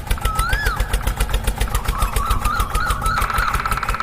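A toy tractor's engine sound chugging in rapid even pulses, about eight a second. Over it there is first one rising-and-falling call, then wavering tones, and from about three seconds in a steady buzzing tone.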